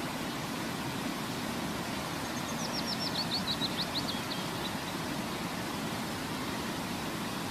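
Steady rushing background noise, with a short bird song phrase about two and a half seconds in: a quick run of high, falling notes lasting about two seconds.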